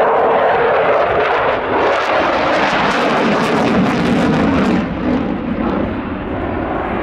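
Eurofighter Typhoon's twin EJ200 turbofans passing in a display flight: a loud, rushing jet roar with a crackling rasp strongest from about two to five seconds in, then easing as the aircraft draws away.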